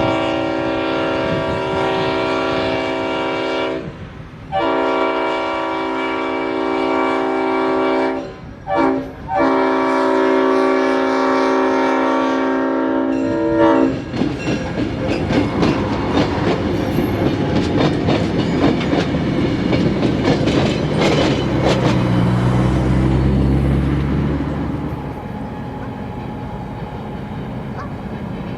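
Leslie RS5T five-chime air horn on an EMD GP38-3 diesel locomotive sounding the grade-crossing signal: two long blasts, a short one and a final long one. The locomotive and its train then pass close by, with wheels clattering over rail joints and the diesel engine rumbling loudest as it goes by, then fading to a lower rumble.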